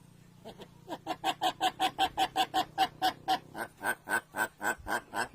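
A pet bird giving a rapid run of short, repeated clucking calls, about five a second, starting about a second in.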